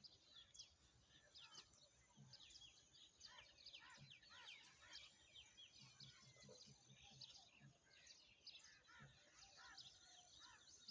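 Faint morning chorus of many small birds chirping and twittering, with quick overlapping notes throughout and short low sounds underneath.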